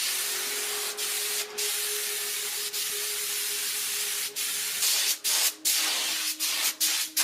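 Steady hiss of compressed air with a few brief breaks, then short on-off bursts from about five seconds in.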